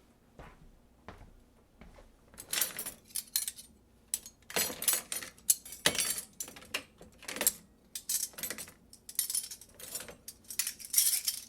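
Metallic jingling and rattling in irregular shaken bursts: a few faint clicks at first, then busier and louder from about two seconds in.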